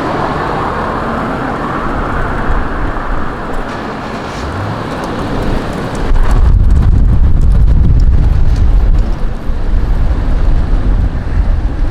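Vehicle driving with steady road and wind noise. About six seconds in, a much louder low rumble of strong wind buffeting the microphone takes over and lasts to the end.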